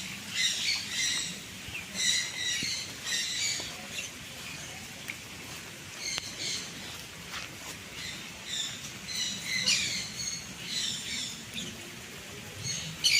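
A flock of small birds chirping in quick, high bursts, with a lull a few seconds in before the chirping picks up again.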